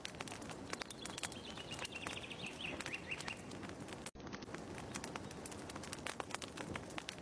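Wood fire crackling with a dense, irregular scatter of small pops, and a thin, wavering high tone drifting slightly downward between about one and three and a half seconds in. The sound cuts out for a split second about four seconds in.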